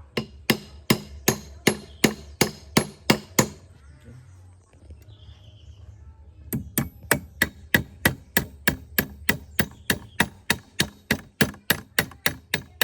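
Hammer striking in quick, evenly spaced blows: about ten at roughly three a second, a pause of about three seconds, then a faster run of blows that keeps going.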